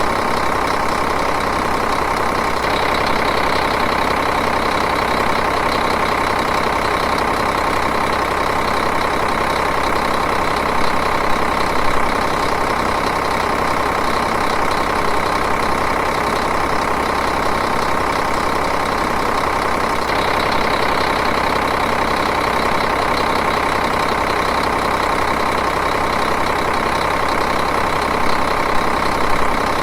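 Diesel engine idling steadily, an even mechanical running with a constant hum.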